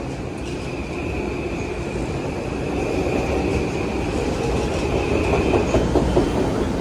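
Ten-car electric commuter train pulling out and running past, its wheels rumbling on the rails under a steady high whine, growing louder, with wheels clacking over rail joints near the end.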